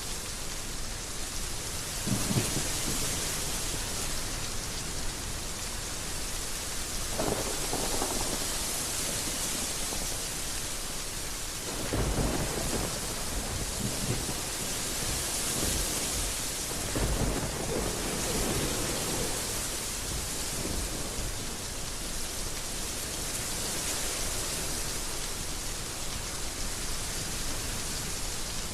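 Heavy rain falling with a steady hiss, broken by about four low rolls of thunder spread through it.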